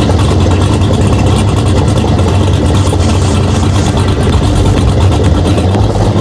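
A car engine running loudly and steadily, with a strong low hum and a dense rushing noise over it.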